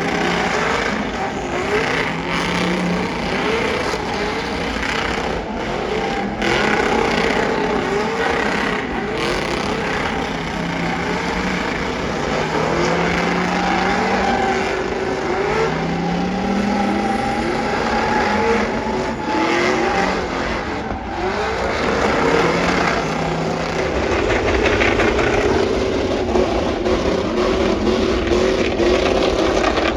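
Racing vehicle engines at a drag strip, accelerating hard, their pitch climbing and dropping back again and again as they rev and shift.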